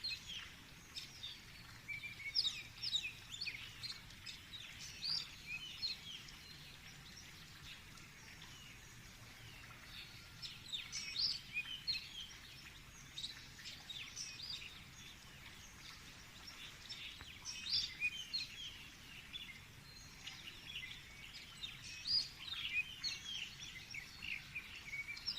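A chorus of small birds chirping and twittering, with many short high calls overlapping in busy bursts.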